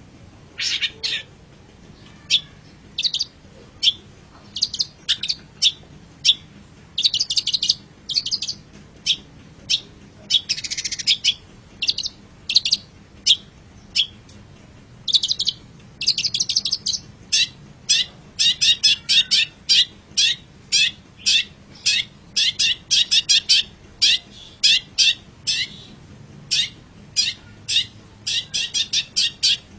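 Long-tailed shrike (cendet) singing: a long series of short, sharp, high chirps. They are scattered at first and come in quick runs from about halfway on, with one longer, harsher note about ten seconds in.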